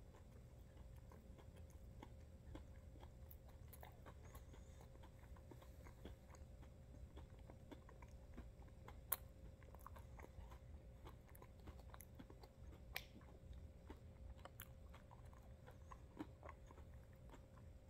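Faint chewing of a mouthful of protein bar, with scattered soft crunches and clicks, two of them a little louder about nine and thirteen seconds in.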